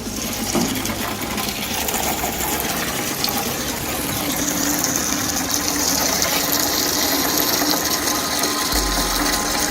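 Used engine oil pouring out of the opened sump drain hole into a container after an engine flush, over a steady mechanical whirr.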